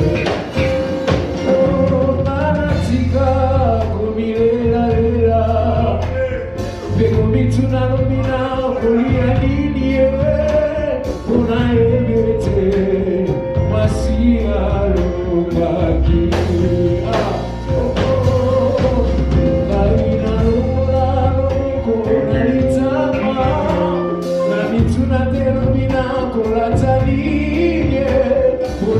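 Live gospel praise-and-worship music: a band with bass and drums playing under sung vocals.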